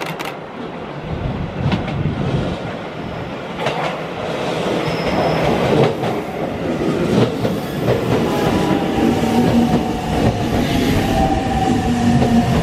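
Nagoya Rinkai Rapid Transit 1000 series electric train pulling into the station and running close past, rumbling and clacking over rail joints, growing louder as it nears. In the second half a whine sets in and falls in pitch as the train slows.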